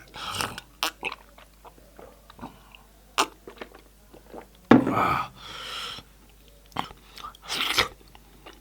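Close-miked mouth sounds of a person eating: chewing and wet mouth clicks, with two louder breathy noises, one about five seconds in and one near the end.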